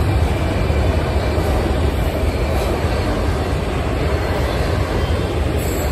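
Florida East Coast Railway freight train's autorack cars rolling past: a steady, even rumble of wheels on rail.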